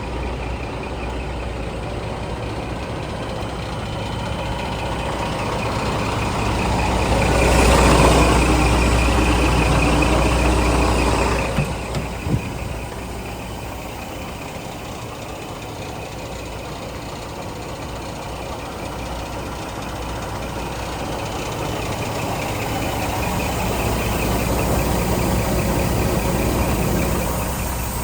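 Scania G420 truck's inline-six diesel engine running at idle. It is revved up and held for a few seconds about a quarter of the way in, then drops back sharply with a couple of sharp clicks. Near the end it slowly rises again and falls back.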